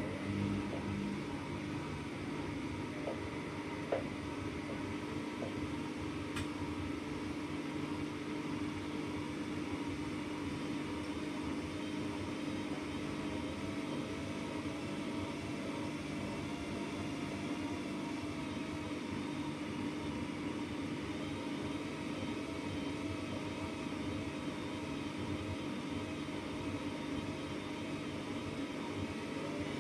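AEG Lavamat Turbo washer-dryer running mid-cycle: a steady machine hum with a constant tone and a couple of faint ticks.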